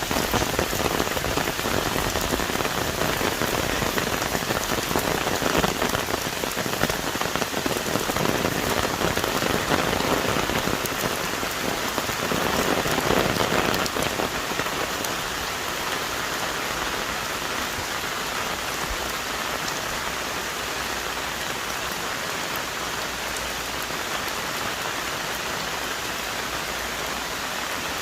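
Heavy rain falling on forest trees and leaves: a dense patter of drops that swells about halfway through, then settles into an even, steady hiss.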